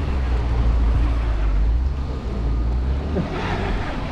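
A car stuck in deep snow, its engine running with a steady low rumble as the wheels spin for grip; a short hissing burst about three seconds in.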